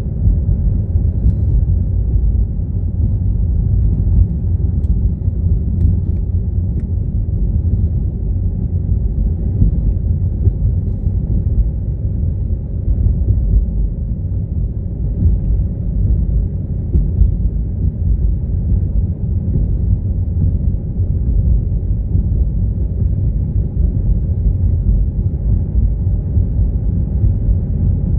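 Car driving along: a steady low rumble of engine and road noise that holds even throughout.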